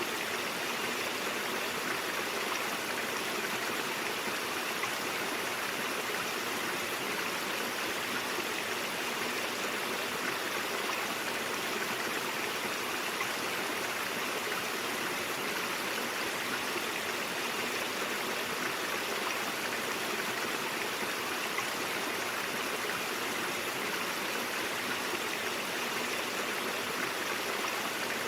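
Stream water flowing and babbling steadily over rocks, an even rushing wash with no breaks.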